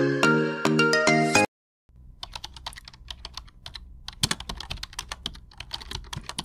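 A chiming tune of bell-like notes that cuts off suddenly about a second and a half in. After a short silence comes a long run of quick, irregular clicks, like typing on a keyboard.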